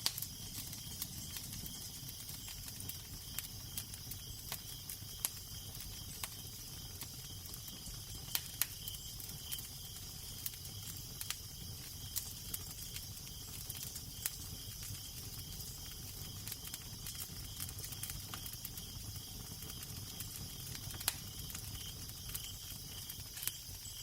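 Fireplace fire crackling, with irregular sharp pops and snaps over a steady hiss, and a low steady wind rumble beneath.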